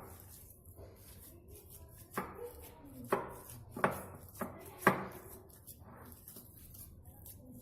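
Boiled potatoes being mashed in a bowl, the utensil knocking against it five times, irregularly, between about two and five seconds in.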